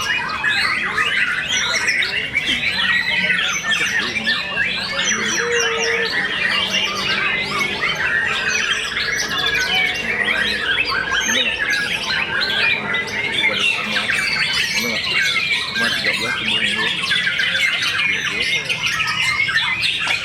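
Many caged songbirds singing and calling at once: a dense, overlapping chorus of chirps, trills and whistles with no break.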